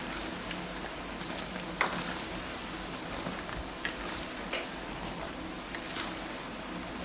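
Steady background noise with a low hum and a few sharp clicks or clinks, the loudest a little under two seconds in and several more in the second half.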